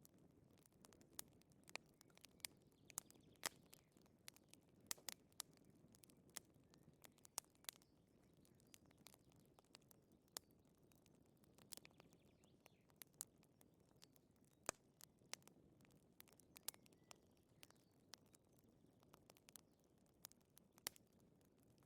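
Wood fire crackling: irregular sharp pops and snaps over a soft low rumble.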